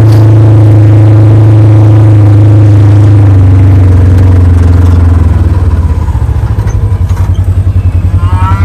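Small vehicle engine running steadily, then easing off about five seconds in to a throbbing idle.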